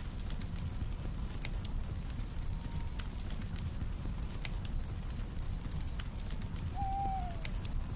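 Campfire crackling with scattered sharp pops over a steady low rumble, crickets chirring in a continuous high band, and one short falling call near the end.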